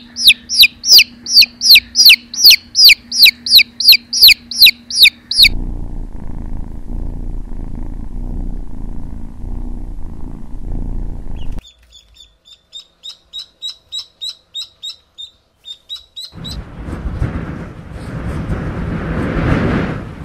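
A chick peeping loudly and rapidly, with high, falling peeps about three a second. These give way after about five seconds to a kitten's steady low purr, then faint quick high chirps, and near the end wind rushing past a car window.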